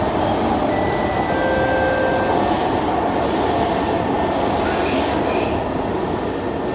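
Cabin noise of a Kawasaki–Nippon Sharyo C151 metro train running through a tunnel: a steady loud rumble of wheels on rail. Brief thin, high squeals or whines rise out of it a few times in the first half.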